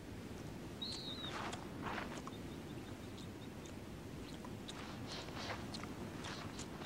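Faint outdoor ambience with scattered soft rustles and clicks of elk moving through grass, and one short high chirp about a second in.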